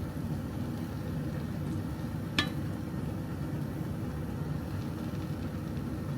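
Steady low kitchen hum, with a single sharp clink a little over two seconds in.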